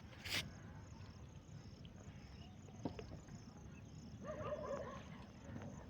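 Faint outdoor background with insects chirping steadily in short, evenly repeating high pulses, a brief noisy burst right at the start, and a wavering call or distant voice from about four seconds in.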